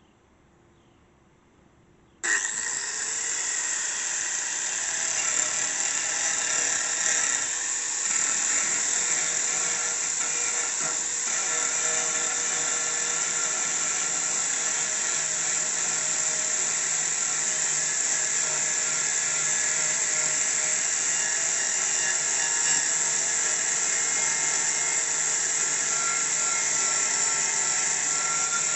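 Electric grinder switching on about two seconds in and running steadily as it sharpens a steel mower blade, a continuous high-pitched grinding.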